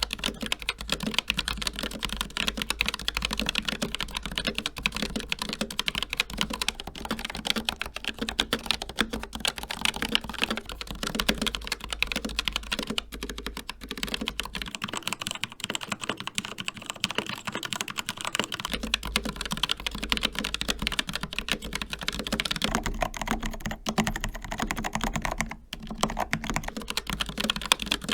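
Continuous fast typing on mechanical keyboards in turn, a dense stream of key clicks. First comes an Asus ROG Strix Scope RX, then an Asus ROG Claymore II, both with ROG RX Red optical switches. About fifteen seconds in it changes to a Keychron K4 with tactile Gateron Brown switches, and near the end to a Melgeek Pixel with Kailh Pixel switches.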